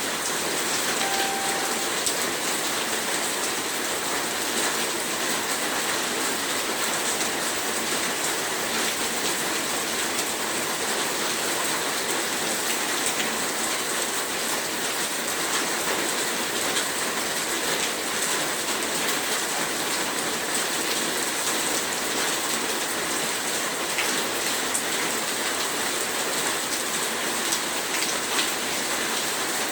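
Heavy rain falling steadily, a dense even hiss of drops on a surface with fine crackling patter.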